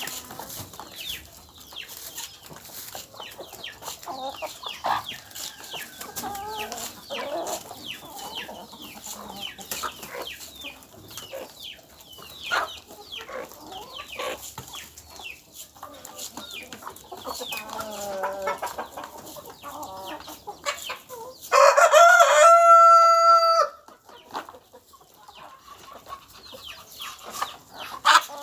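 Chickens clucking throughout, with many light ticks. About three-quarters of the way in a rooster crows once for about two seconds, the loudest sound here.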